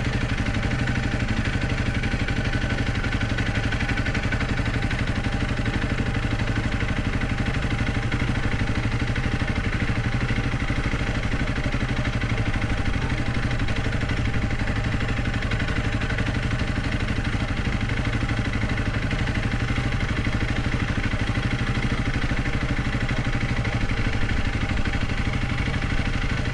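Honda CRF300L Rally's single-cylinder four-stroke engine running steadily at low revs, an even, fast pulsing with no revving.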